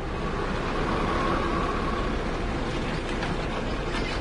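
Heavy diesel construction machinery running steadily, with a faint whine over the first couple of seconds and a few light clanks near the end.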